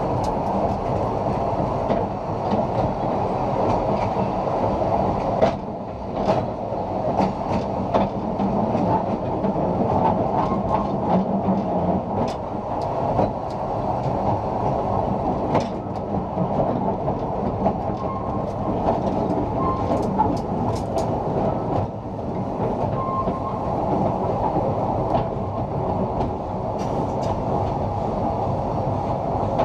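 Narrow-gauge train running along the track: a steady rumble of wheels on rail, with sharp clicks at irregular intervals as the wheels pass over rail joints.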